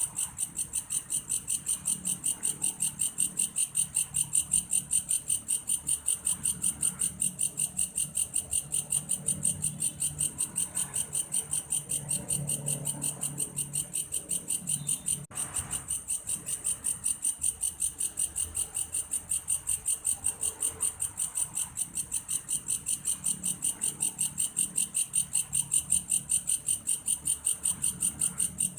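A belalang kayu, a grasshopper whose song resembles a cricket's, calling in a continuous high-pitched train of rapid, even pulses. There is a momentary break about fifteen seconds in.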